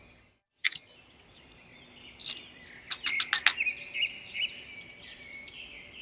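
Small birds chirping and singing in repeated high arching calls, with a run of sharp quick chirps between about two and three and a half seconds in.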